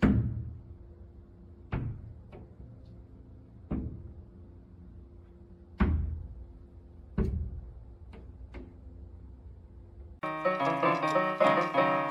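A series of heavy thuds, five loud ones a second or two apart with a few lighter knocks between them, over a faint steady hum. About ten seconds in, piano music starts.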